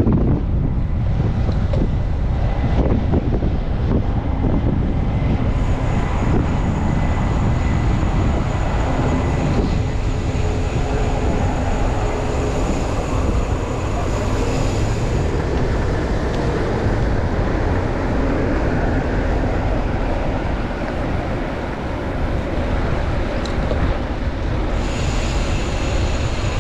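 Strong gusty wind buffeting the microphone of a chest-mounted camera on a moving bicycle, a loud, steady low rumble, with faint street traffic underneath.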